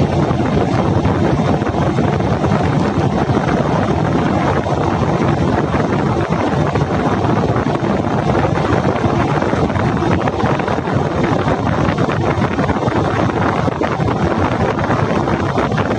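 Fishing boat under way at sea: a steady engine drone mixed with wind noise on the microphone.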